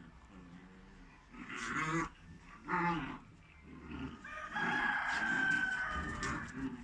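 Dogs play-fighting: low growls repeating throughout, two short sharp cries, then one long drawn-out call about two seconds long.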